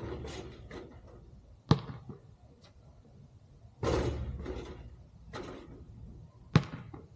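Two sharp thuds of a basketball, about five seconds apart, with bursts of scuffing and rustling between them.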